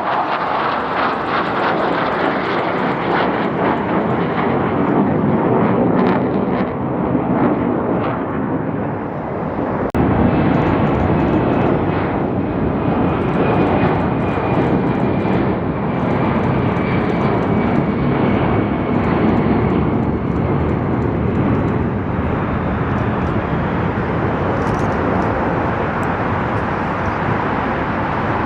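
Airplane engine roar overhead, steady and loud throughout, growing deeper and heavier about ten seconds in, with a faint high whine slowly falling in pitch through the middle.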